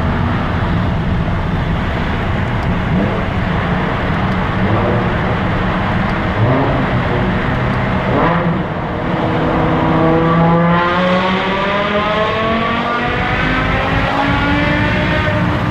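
BMW E60 M5's V10 engine with an open exhaust, heard in a tunnel: a loud, rough rumble, then about ten seconds in the engine note climbs steadily as it accelerates.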